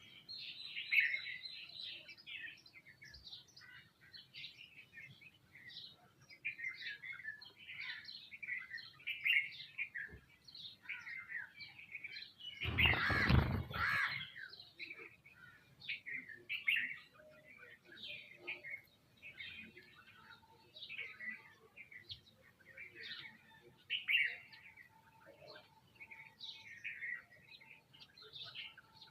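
A flock of small birds, sparrows among them, chirping continuously in dense overlapping chatter. About halfway through, a loud rushing noise lasts a second or two.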